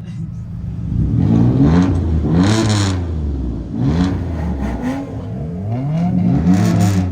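A car engine revving up and dropping back about four times, its pitch climbing and falling with each rev.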